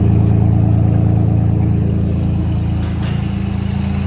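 4.3-litre V6 engine idling steadily, with no knock: the knock has been cured.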